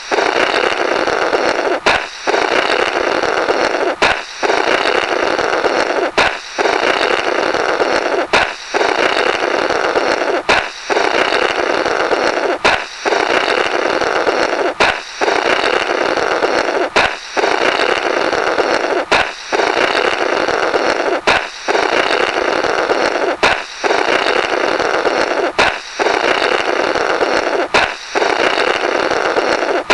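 Comical 'Blorrrt' balloon sound effect, looped. A balloon pops with a sharp crack, then someone blows a long raspberry-like flutter through the burst rubber. The same two-second cycle repeats about fourteen times, each one starting on the pop after a brief gap.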